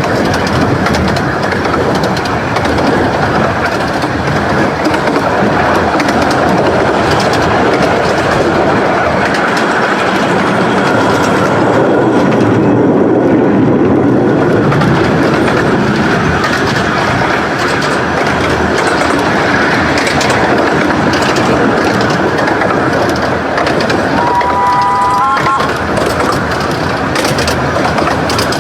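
Fifteen-inch-gauge miniature railway train running on the track, a steady loud rumble and clatter throughout. About 24 seconds in, a brief chord of several high tones sounds and steps up in pitch.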